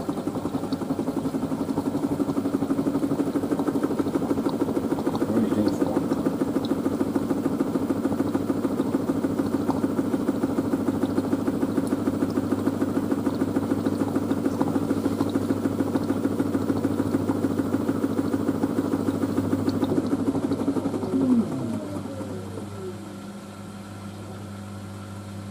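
LG DirectDrive F1496AD washer dryer's drum spinning a load of towels with a steady rhythmic pulse, then slowing down with a falling pitch about 21 seconds in, leaving a low steady hum.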